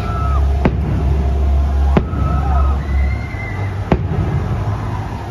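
Aerial firework shells bursting overhead: three sharp bangs about a second or two apart, over a deep steady rumble.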